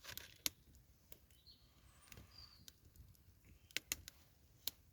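A few sharp, faint clicks and taps, two of them close together near four seconds in, with a couple of faint high bird chirps in between.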